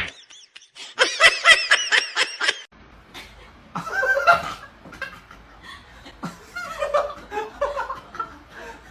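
People laughing and snickering in short bursts, with a break near the start.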